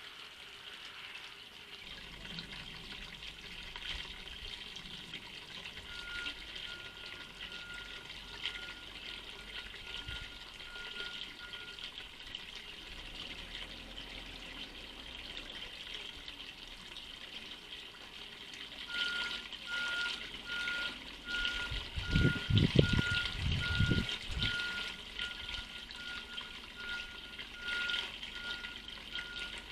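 Garden ambience from a wildlife camera at a bird feeder: a steady hiss with a single bird note repeated about twice a second, starting about a fifth of the way in, pausing, and returning. A few loud low thumps come about three-quarters of the way through.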